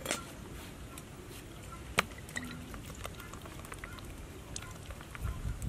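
Scattered crackles and pops from quail and spice paste cooking in a black iron wok, with one sharper pop about two seconds in.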